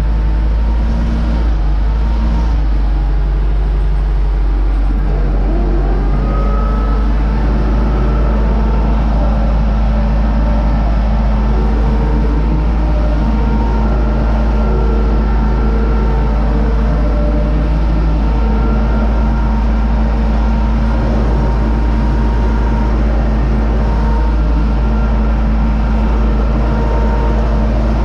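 Universal 650 tractor's four-cylinder diesel engine running loudly and steadily at a constant speed while pulling a SUP-21 wheat seed drill.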